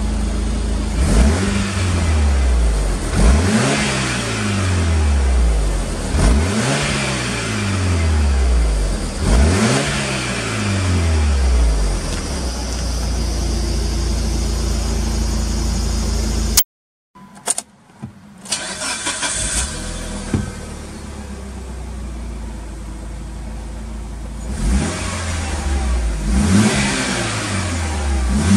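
Mitsubishi Lancer Evolution Wagon's 2.0-litre MIVEC turbo four-cylinder (4G63), heard at the exhaust tailpipe, blipped four times in quick succession, each rev rising and dropping back to a steady idle. After a brief break it is heard more quietly from inside the cabin, idling, then revved again a few times near the end.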